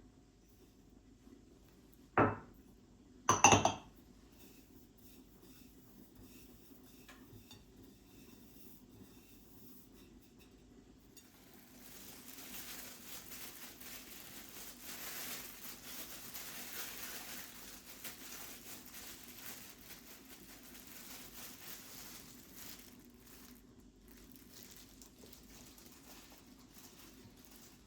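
Kitchenware clattering: two sharp clinks about two and three and a half seconds in, the second louder and ringing, then about ten seconds of soft, even hissing over a faint low hum.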